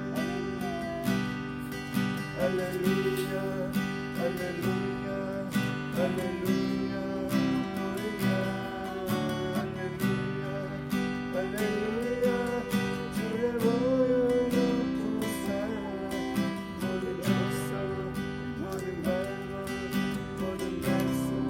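Acoustic guitar strummed in a steady rhythm, playing the chords of a gospel worship song.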